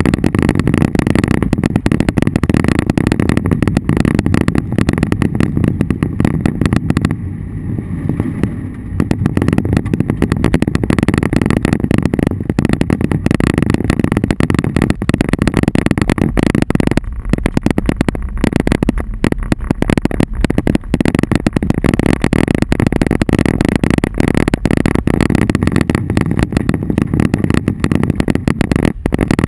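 Inside a car in a thunderstorm: a dense, constant patter of hail and rain striking the roof and windshield over the vehicle's running, easing briefly about seven seconds in.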